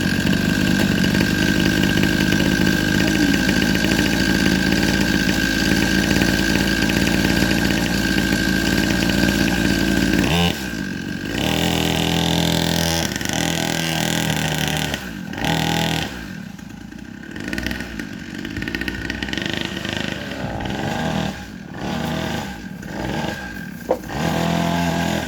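Dirt bike engine running at steady high revs, then dropping sharply about ten seconds in to lower revs, after which the pitch rises and falls several times as the throttle is opened and closed. A single sharp click sounds near the end.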